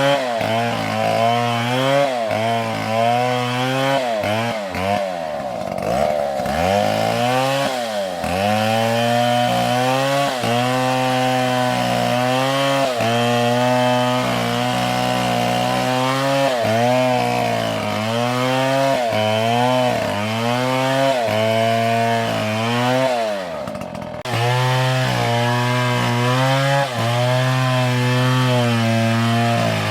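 Two-stroke chainsaw cutting into a palm trunk, its engine pitch dipping and recovering again and again as the chain loads up in the cut, with two deeper drops in speed, about six seconds in and near the end of the third quarter.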